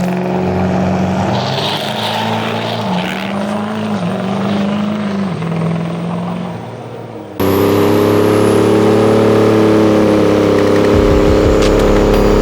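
Diesel pickup truck engine running, its pitch dipping and recovering a few times. About seven seconds in the sound cuts abruptly to a louder, steady engine note.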